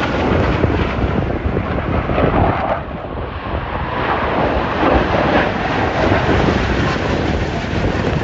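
Loud jet engine noise from Blue Angels F/A-18 Super Hornets, a dense rumble that eases about three seconds in and swells again, with wind buffeting the microphone.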